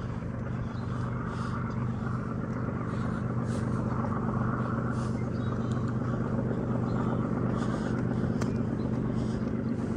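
A steady, low engine hum, running evenly and growing slightly louder.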